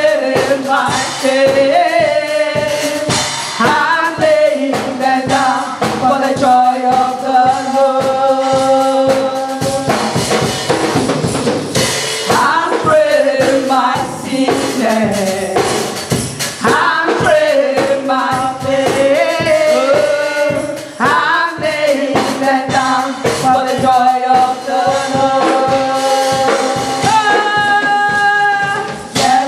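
Church choir singing a worship song with band accompaniment, with drums keeping a steady beat under held and gliding sung lines.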